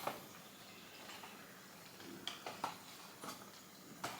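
A few faint light taps and clicks of small objects being handled, over quiet room tone.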